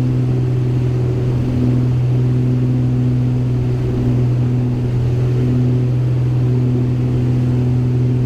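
Beechcraft G58 Baron's twin six-cylinder piston engines and propellers droning steadily in flight, heard in the cabin: a constant low drone with higher tones that fade in and out every second or so.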